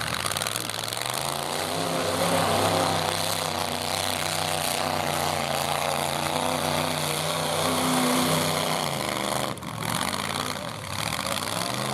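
Pickup truck engines running steadily, their pitch rising slightly about a second in, with a brief drop in level near the end.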